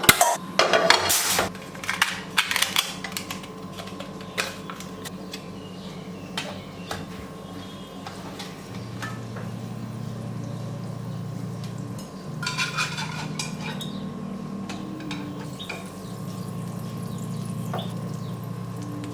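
Dishes and cutlery clinking and clattering, busiest in the first few seconds, with scattered knocks after that and a short flurry about two-thirds of the way through. Low held tones run underneath and shift every few seconds.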